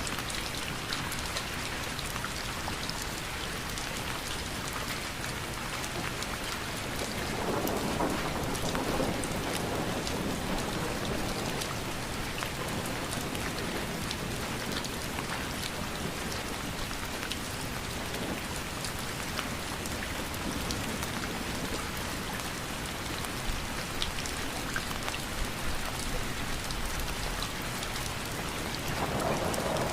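Steady rain falling and pattering, with fine drop ticks throughout. A low rumble swells up about eight seconds in and again near the end.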